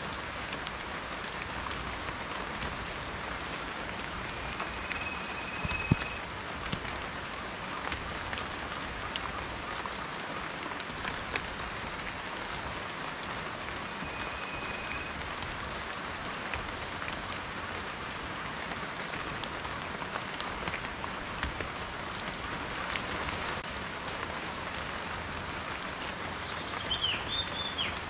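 Steady rain, with many individual raindrops ticking and pattering on a surface. One sharper drop lands about six seconds in, and a short chirp comes near the end.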